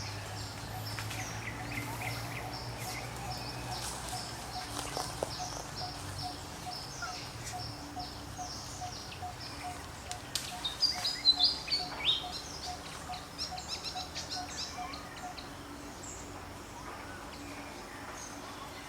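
Birds calling outdoors: many short high chirps throughout, with a burst of louder chirps around the middle. Under them runs a steady series of short, evenly spaced low notes that stops a little after the middle.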